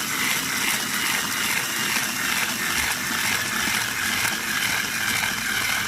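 Cordless electric screwdriver running steadily, its small motor and gearbox whirring as it drives a Phillips screw in.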